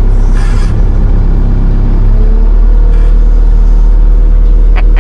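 A vehicle engine running with a loud, steady low drone; about two seconds in its tone shifts slightly and a faint higher hum comes in.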